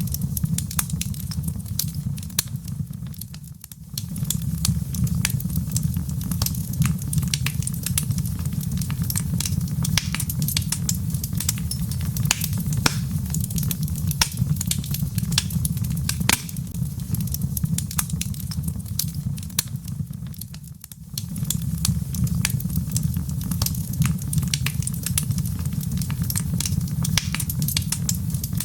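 Log fire crackling, with frequent sharp pops and snaps over a steady low rumble. The sound dips briefly twice, about three seconds in and again near twenty-one seconds.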